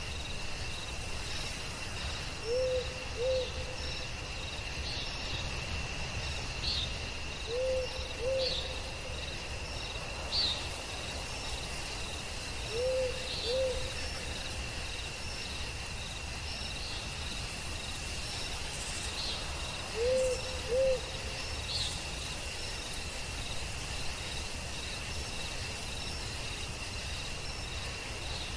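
Night-time forest soundscape: an owl hooting in pairs of two short hoots, four times, over a steady high insect drone of crickets, with scattered faint chirps.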